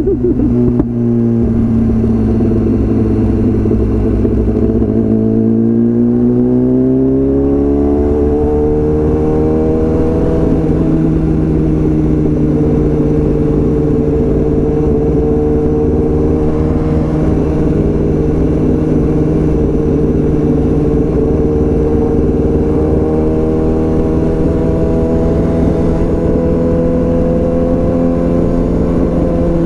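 BMW S1000RR's inline-four engine running through a full Akrapovič exhaust. It holds a steady note, its pitch climbs smoothly over a few seconds about a fifth of the way in, and then it holds steady at the higher note.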